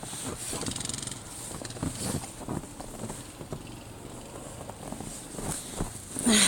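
Snow crunching and rustling in irregular strokes as a person wades into deep snow and settles into a buried chair, with a louder crunch near the end.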